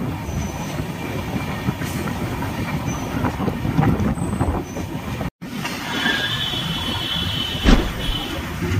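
Tamil Nadu Express passenger train running on the rails with a steady rumble of wheels and coaches. The sound cuts out for a moment about five seconds in; after that a high thin squeal rides over the rumble, and a single sharp knock comes near the end.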